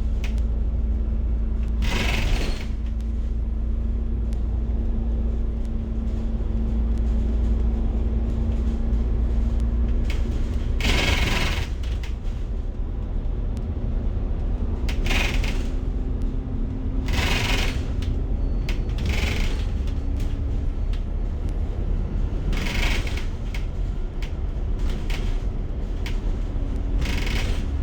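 Interior of a moving city bus: steady low engine and road rumble with a faint constant hum, and a brief louder clatter every few seconds.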